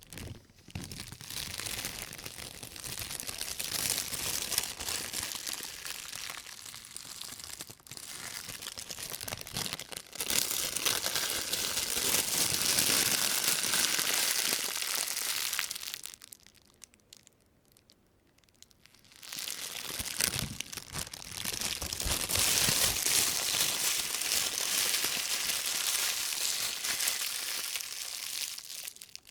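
Rubber-gloved hands rustling and crinkling a thin white plastic shopping bag, recorded binaurally. The rustling stops for about three seconds just past the middle, then starts again.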